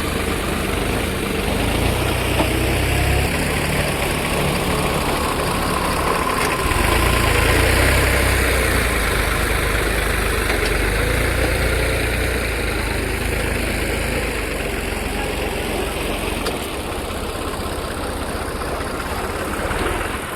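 Diesel tractor engine running steadily, its low note shifting in strength a few times.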